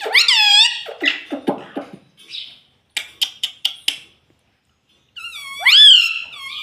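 Indian ringneck parrot vocalising: two loud shrieks that sweep up and then down, one at the start and one near the end, with low chattering after the first and a quick run of about six clicks in between.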